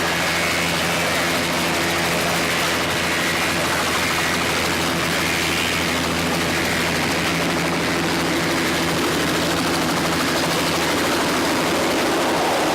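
Helicopter running steadily, a constant engine and rotor drone with a steady low hum and a noisy rush above it.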